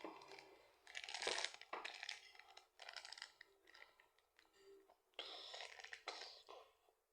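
Plastic packaging being handled and opened, in several short, faint bursts of noise about a second in, around two to three seconds in, and again past the five-second mark.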